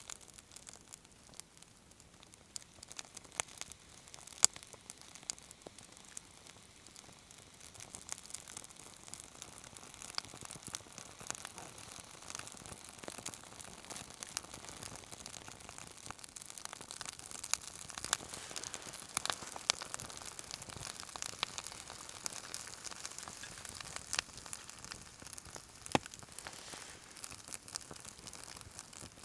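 Wood fire crackling: irregular sharp pops and snaps over a hiss that grows louder after about eight seconds.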